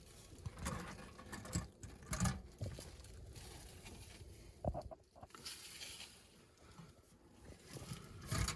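Light handling noises: scattered soft knocks and rustling as a tin-plate Lionel standard gauge toy caboose is moved about and turned over by hand.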